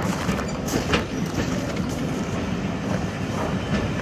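Railway passenger coaches rolling past over the track, a steady rumble with a few irregular clicks and knocks from the wheels crossing rail joints.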